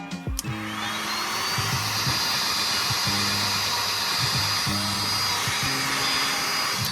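Heat gun switched on about half a second in: its fan whine rises and settles into a steady high whine over a rush of blown air, then it cuts off near the end and the whine falls away. It is heating the sole before the glue is adhered. Background music plays underneath.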